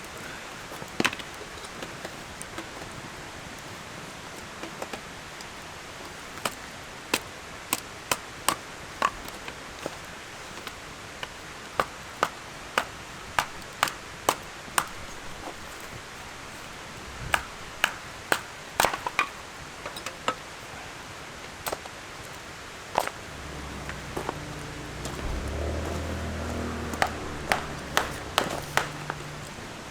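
Firewood giving sharp, irregular cracks and clicks, about one or two a second. A low steady hum comes in near the end.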